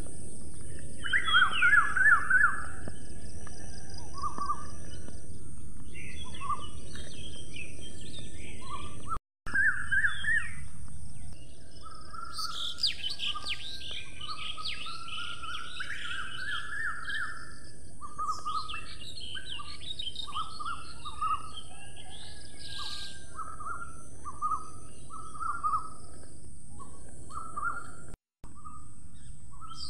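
Several birds chirping: short calls repeated throughout, with a spell of denser, higher-pitched twittering in the middle, over a steady background hiss. The sound cuts out briefly twice.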